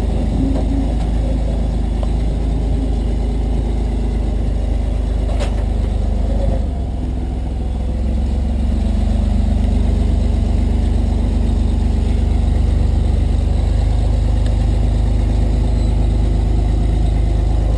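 Off-road vehicle engine running steadily at low revs, easing off briefly about seven seconds in and picking back up. A single sharp click about five and a half seconds in.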